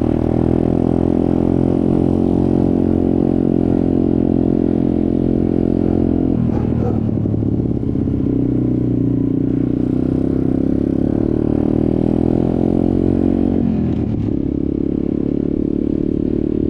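Off-road motorcycle engine running steadily under way. The engine note changes abruptly twice, about six seconds in and again near fourteen seconds, then settles at a new steady pitch.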